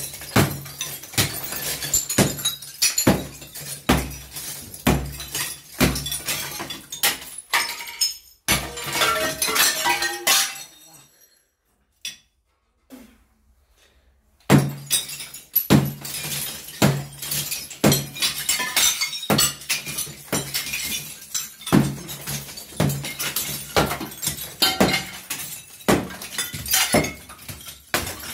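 Fireplace masonry being broken apart by hand with repeated heavy hammer blows, about one a second, with debris crumbling and clattering between them. The blows stop for a few seconds partway through, then start again.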